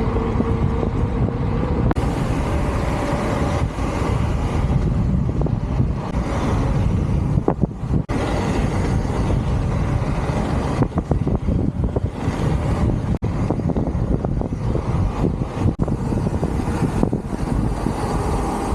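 Wind buffeting the microphone during a fast downhill ride, a dense low rumble with brief dropouts.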